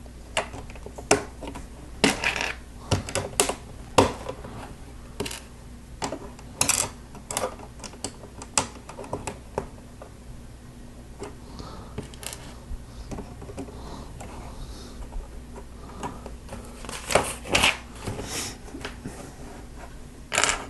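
Plastic Lego bricks and plates clicking and tapping as they are handled and pressed together, in irregular sharp clicks that thin out in the middle.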